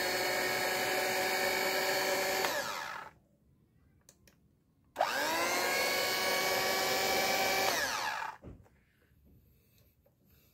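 Philips HR1559 hand mixer's newly fitted replacement motor running with no beaters attached, a steady whine, showing the new motor works. It winds down about three seconds in, then is switched on again about five seconds in with a quick rising whine, runs about three seconds and winds down.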